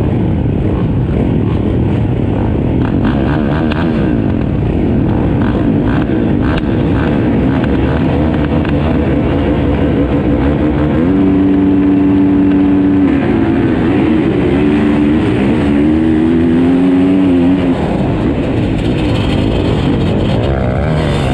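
Motocross bikes running together, engines revving up and down. From about halfway, one engine holds a steady pitch for a couple of seconds, then rises and falls until about three-quarters through.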